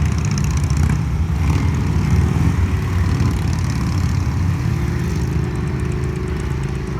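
Several motorcycle engines running at low riding speed, a dense, pulsing low rumble. About five seconds in, a steadier, higher engine note joins.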